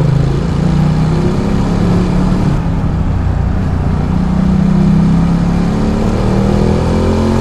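Ducati Multistrada 1200's V-twin engine running under way. Its pitch holds fairly steady, then rises near the end as the bike accelerates.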